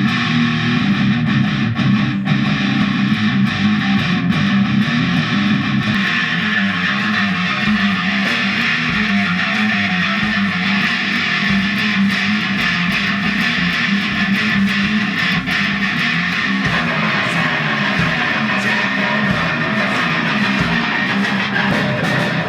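Electric guitar playing a riff, the part changing about six seconds in and again near seventeen seconds.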